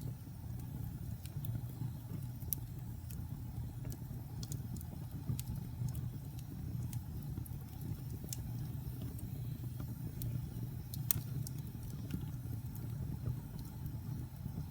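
Wood fire burning in a fireplace: a steady low rumble of flames with irregular sharp crackles and pops from the logs, one louder pop near the end.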